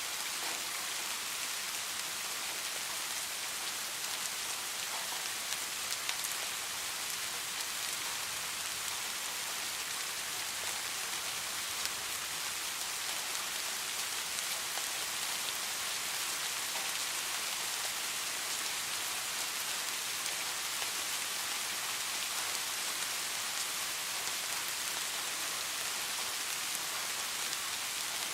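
Steady rain: an even hiss of falling rain with scattered individual drop ticks, unchanging throughout.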